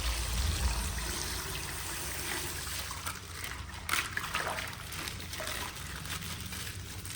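Coloured water trickling out of a punctured plastic ice pack, with one sharp click about four seconds in.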